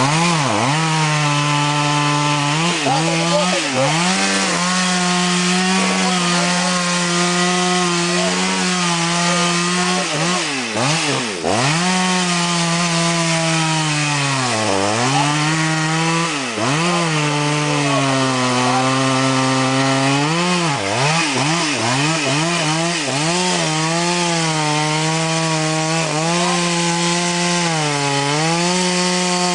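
Chainsaw cutting timber at high revs, its pitch sagging sharply several times as the chain bogs down in the wood and then recovering.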